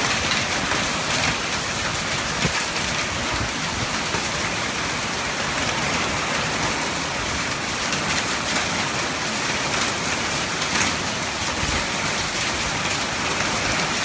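Heavy rain and hail pouring down steadily, a dense hiss full of small sharp hits on surfaces.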